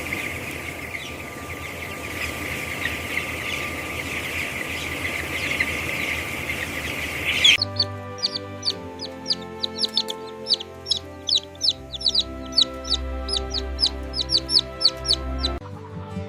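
A flock of chicks peeping, first as a dense, overlapping chorus. About halfway through, the chorus gives way to single high, falling peeps, two or three a second. Background music plays underneath.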